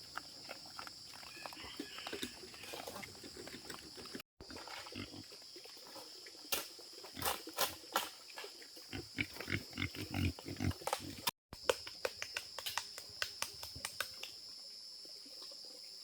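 A series of short, irregular animal calls, thickest in the middle, over a steady high drone.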